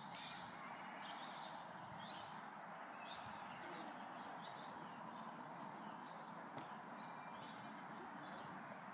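Small birds chirping: short high calls repeating about once or twice a second, fading somewhat later on, over a faint steady background hiss.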